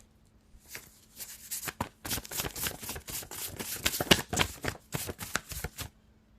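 A deck of tarot cards being shuffled by hand: a quick run of papery card shuffling noises for about five seconds, stopping shortly before the end.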